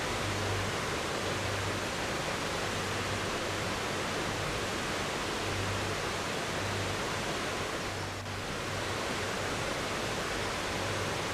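River water flowing steadily, an even rushing sound that dips briefly about eight seconds in.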